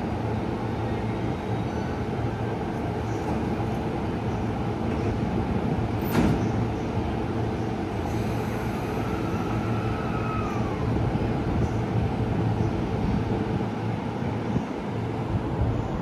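Electric passenger train running on the tracks: a steady rumble, with a sharp clack about six seconds in and a short whine that rises and falls in pitch a few seconds later.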